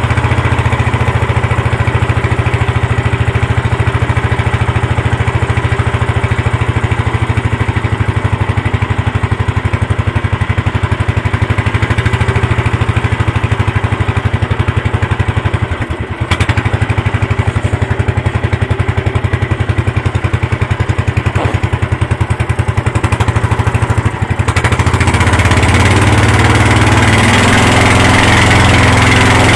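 Tow boat's engine running steadily and loudly, with a low hum; about 24 seconds in it gets louder, with much more rushing hiss.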